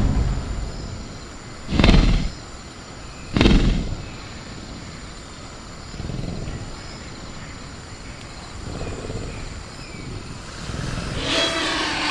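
Sound-effect ambience of a caged velociraptor: two heavy bangs about a second and a half apart, like the animal striking its cage, then a rasping raptor growl building near the end. A steady high insect drone, like crickets, runs underneath.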